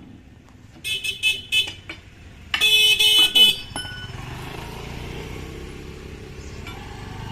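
A vehicle horn: a few short toots, then a longer blast of about a second, followed by the steady hum of a running engine.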